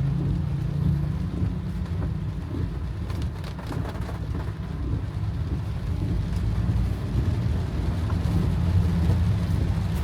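Steady low rumble of a car driving, heard from inside the cabin, with heavy rain falling on the car and windshield.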